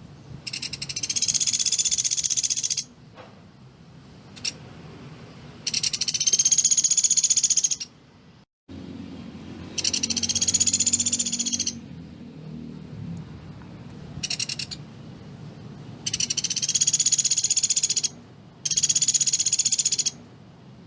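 Pelatuk beras woodpecker calling in rapid, dense rattling trills. There are five trills of about two seconds each with short pauses between them, and two brief bursts.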